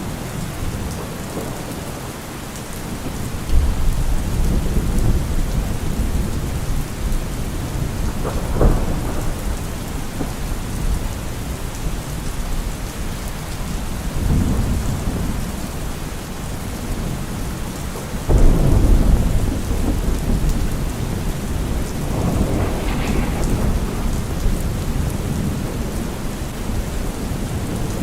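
Steady rain falling on trees and leaves, with several low rolls of thunder swelling and fading; the loudest comes about two-thirds of the way through.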